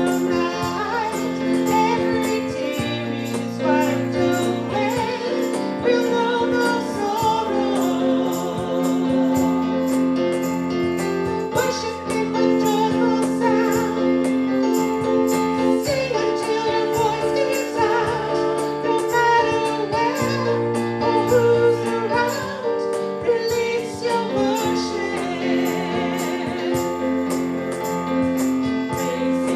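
A worship song: a woman's lead voice singing over keyboard, with other voices joining in.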